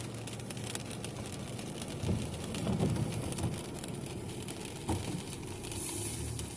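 Rain falling on a car's body and windshield, heard from inside the cabin over a steady low engine hum. A few soft low thumps come about two to three and a half seconds in, and a short knock near the end.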